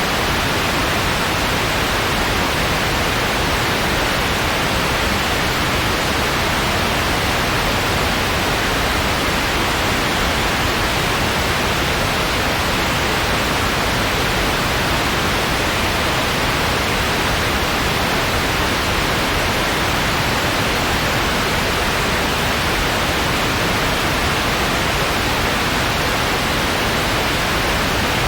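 Steady synthetic white noise, an even hiss that doesn't change.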